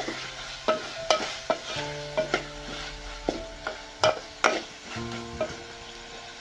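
A spoon stirring and scraping in a pan of dry fish chutney as it fries and sizzles, with irregular clicks of the utensil against the pan.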